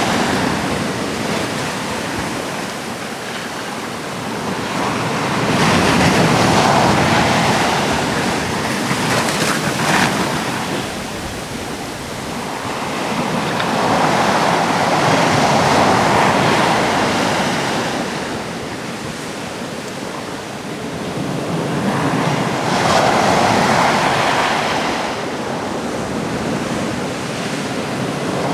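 Sea waves breaking and washing ashore, a rushing surf that swells and ebbs about every eight to nine seconds.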